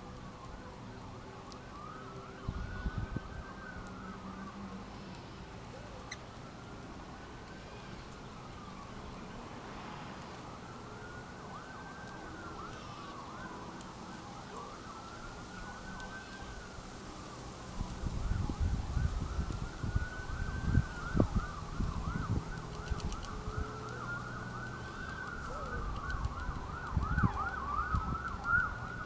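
Emergency vehicle siren wailing in slow rises and falls, with faster yelping sweeps alongside that quicken near the end. Low rumbling thumps come and go in the second half.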